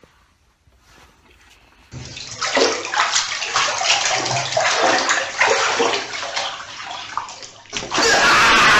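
Water splashing and sloshing, starting suddenly about two seconds in and changing near the end to a steadier rush of water.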